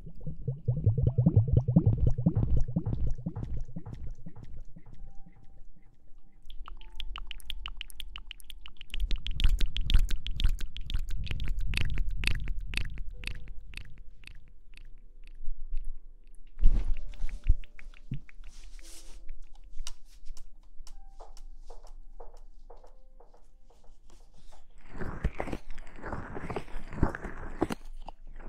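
Close-miked ASMR rustling and crackling: dense runs of fast crackles, with heavier low rubbing and thumping against the microphone at times.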